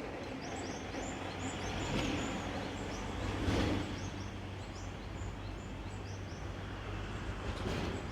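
A small bird chirping repeatedly in short high notes, a few a second, over a steady low hum and background noise.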